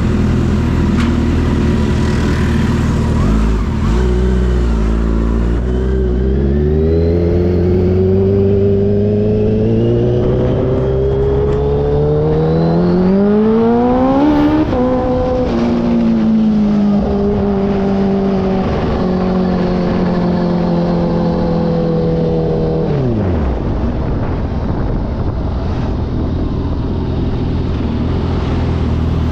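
Kawasaki H2 motorcycle engine under way. It runs steadily at first, then climbs in pitch through the gears for about ten seconds to a peak about halfway. After that the revs fall away gradually, with a sudden sharp drop in revs near the end before it settles into a low steady run.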